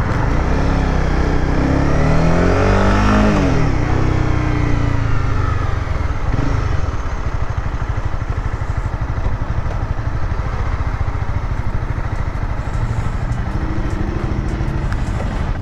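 Honda CBR300R single-cylinder motorcycle engine riding at low speed. Its note rises over the first three seconds, drops sharply as the bike slows into the turn, then settles into a low, steady, pulsing rumble.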